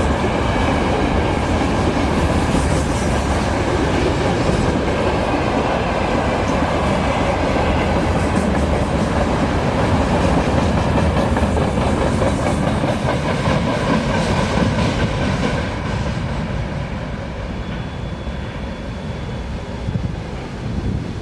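Freight train wagons rolling past on the rails, wheels clattering over the rail joints. The noise holds steady, then fades over the last five seconds or so as the train draws away.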